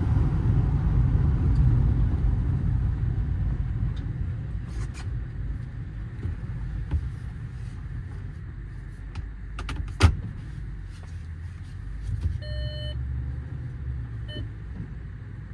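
Ford F-550's 6.8-litre V10 and road noise heard from inside the cab, the rumble easing off as the truck slows. Scattered clicks from the cab, one sharp loud click about ten seconds in, and a short chime-like beep near the end.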